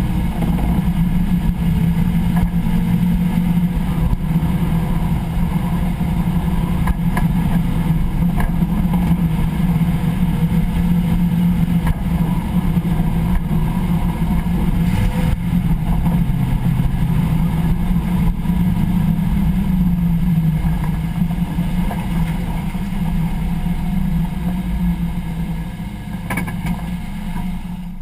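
Car's driveline and road noise heard from underneath at the rear differential pinion: a steady low hum that dips in pitch about twenty seconds in, then fades over the last few seconds as the car slows. This is the setting in which the owner is chasing a driveline noise on deceleration.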